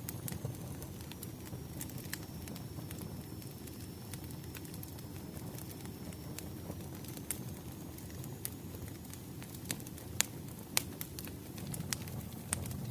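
Wood fire burning: a steady low rumble of flames with irregular sharp crackles and pops from the burning logs, a few louder pops about ten seconds in.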